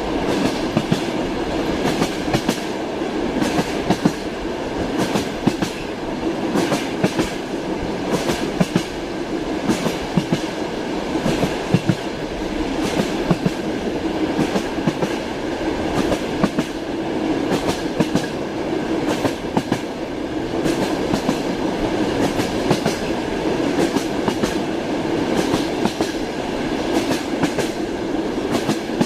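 Passenger train rolling along the track, heard from inside a sleeping compartment: a steady rumble with the clickety-clack of the wheels knocking over rail joints, in uneven groups of sharp clicks.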